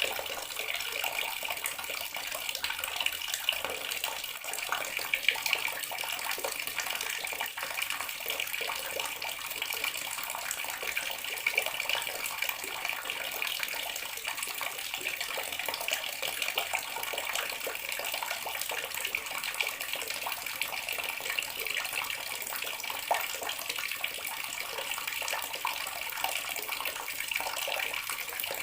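Water running steadily from a bathroom tap, splashing with an even, continuous rush.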